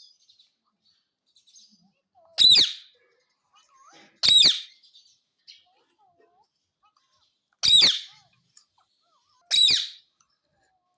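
Pet green parrot giving four short, loud, high-pitched calls, each a quick rise and fall in pitch, spaced a couple of seconds apart.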